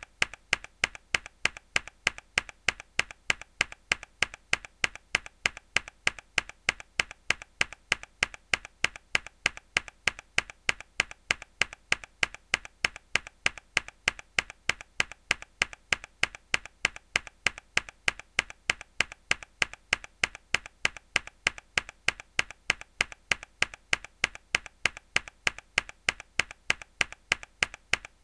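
A single hard key press on a mechanical keyboard, looped: sharp clicks repeating at a steady, even rate.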